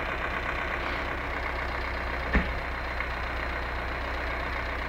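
Car engine running steadily with constant noise, and a single sharp knock about two and a half seconds in.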